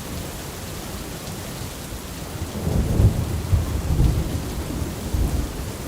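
Thunderstorm: a steady hiss of heavy rain, with a low rumble of thunder swelling up about halfway through.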